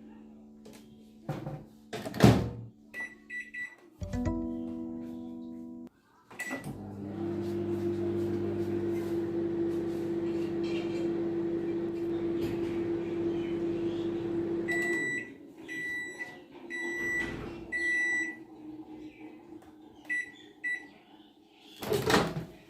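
Microwave oven heating a cup of tea: a few keypad beeps, then about eight seconds of steady humming while it runs, ending with four beeps that signal it is done.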